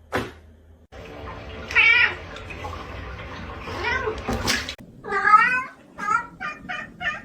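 A domestic cat meowing over and over: a few separate meows, one longer meow about five seconds in, then a quick run of short meows, about three a second, near the end.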